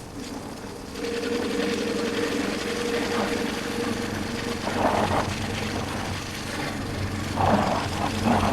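Motorcycle engine running under way, heard from a helmet chin-mounted camera. A steady engine note comes up about a second in.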